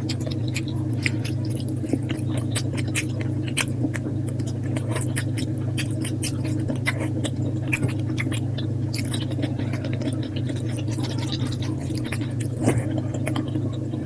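Close-miked eating sounds sped up to double speed: rapid, dense wet chewing and lip-smacking clicks over a steady low hum.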